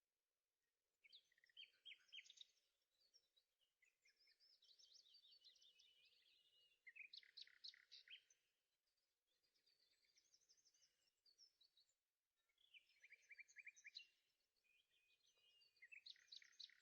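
Faint songbirds chirping and trilling: several phrases of quick, rapidly repeated high notes with short pauses between them.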